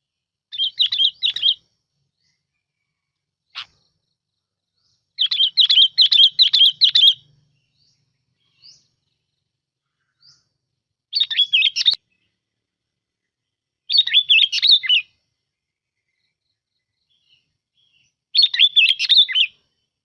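Bulbul (bông lau) song from a lure recording: five short, bubbly warbled phrases, each a second or two long, with pauses of a few seconds between them.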